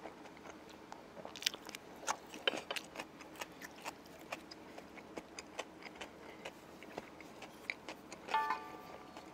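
A person chewing food close to the microphone: soft, irregular wet clicks and smacks of mouth sounds, with a brief pitched sound about eight seconds in.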